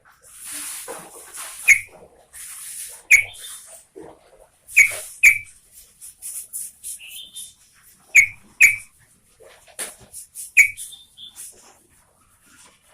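Yellow-vented bulbul singing: about seven short, loud whistled notes that drop sharply in pitch, some coming in quick pairs, mixed with scratchy chattering and a few higher warbled notes.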